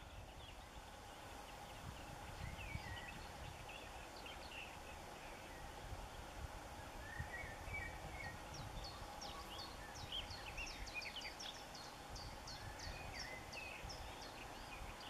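Small birds chirping and singing, with a fast run of short high notes a little past halfway, over a low rumble of wind on the microphone.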